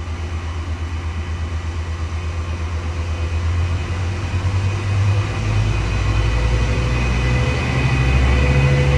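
Diesel locomotive engine running and growing steadily louder as the train approaches, its low throbbing note stepping up in pitch about halfway through and again near the end.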